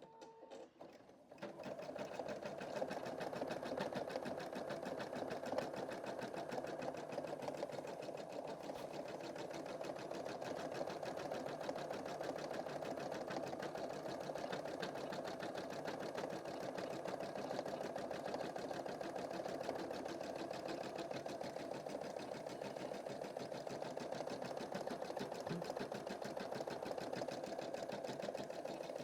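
Embroidery machine starting up about a second and a half in, then stitching steadily with fast, even needle strokes.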